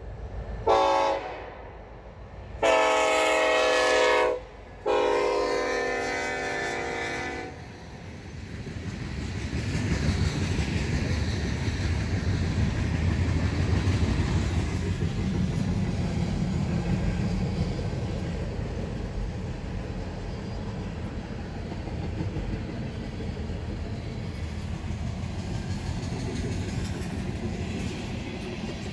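Norfolk Southern freight train's diesel locomotive horn sounding three blasts, a short one then two long ones, as the train approaches. Then the locomotives rumble past and the freight cars roll by with steady wheel noise on the rails.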